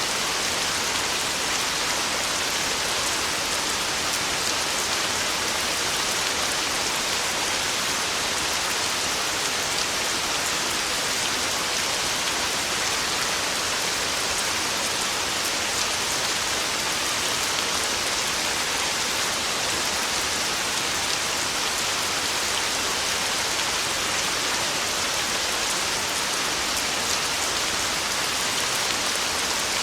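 Heavy rain falling steadily, an even unbroken hiss of drops with no thunder.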